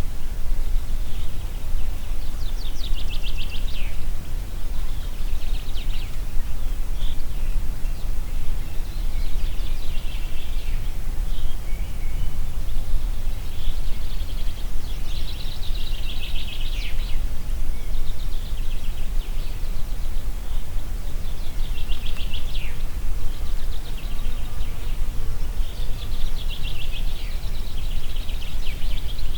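Wind through forest trees as a steady low rush, with songbirds singing short trilled phrases about half a dozen times, each lasting a second or two.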